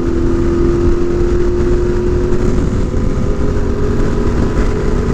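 Yamaha Ténéré 700 parallel-twin engine running at a steady cruise, with wind rumble on the microphone. The engine note holds steady.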